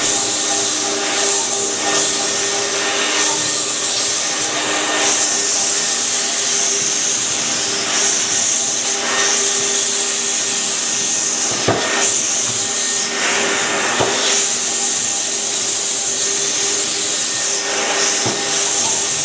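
Electric floor buffer running steadily, its pad polishing a marble floor with polishing powder: a constant motor hum under a strong hiss, with a few short knocks in the middle and near the end.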